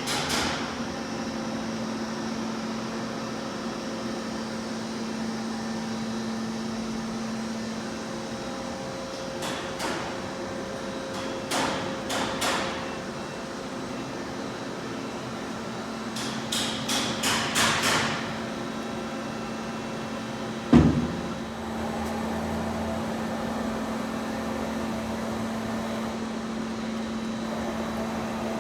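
Steady machine hum, with a few quick runs of sharp metallic clicking and one heavy clunk about two-thirds of the way in.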